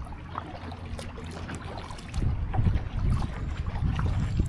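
A sit-in kayak being paddled across choppy water, with wind buffeting the microphone. The wind buffeting gets louder about two seconds in.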